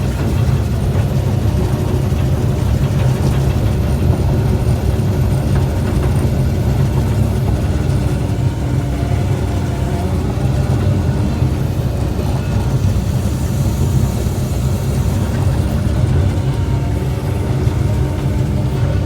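Excavator's diesel engine running steadily under load, a continuous deep drone with faint steady whining tones above it.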